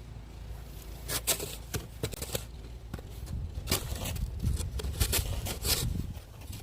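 Snow shovel scraping and crunching through snow in a run of short strokes.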